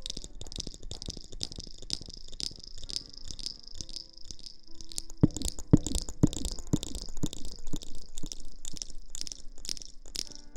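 Close-miked ASMR rustling or scrubbing strokes, about three a second and evenly spaced, with a few louder taps about halfway through.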